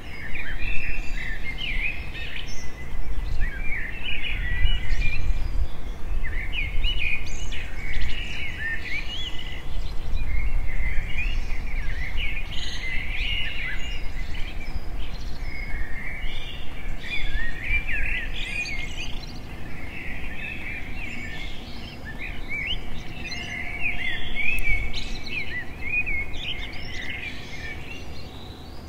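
Many small birds chirping and twittering in quick, overlapping calls, over a low rumble that is stronger in the first half.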